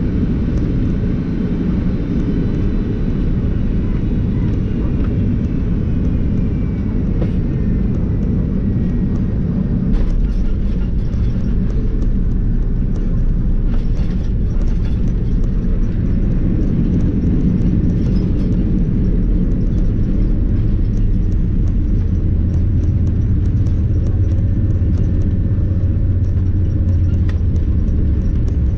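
Steady low rumble of a vehicle, with a faint high whine that falls slowly in pitch over the first several seconds. The rumble grows heavier in the last third.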